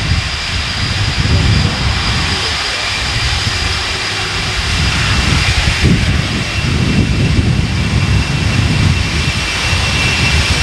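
Boeing 747-400's Rolls-Royce RB211 jet engines running, a steady loud rush with a thin high whine over a low rumble.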